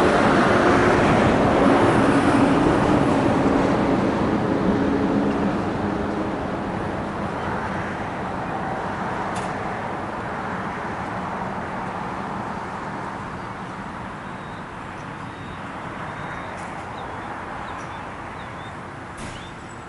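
A Pierce fire engine driving off on a call: engine and road noise with a steady low drone, loud at first and then fading away steadily as the truck pulls into the distance.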